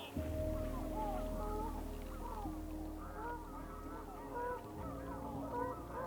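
A flock of waterfowl honking, many overlapping calls at once, over a steady low drone.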